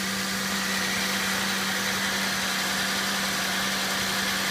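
2001 Chevrolet Impala's V6 engine idling steadily, an even hum with no change in speed.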